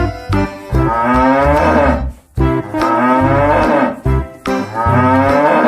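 Two long cow moos, each about two seconds, over backing music with a steady beat.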